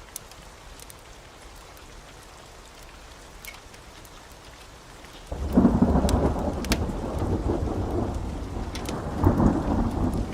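Steady rain with scattered sharp drips, then about five seconds in a loud roll of thunder breaks in suddenly and rumbles on, swelling a second time near the end.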